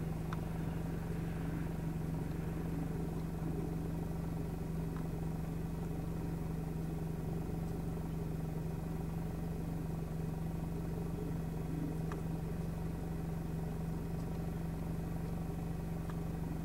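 Car engine idling with a steady, unchanging low hum.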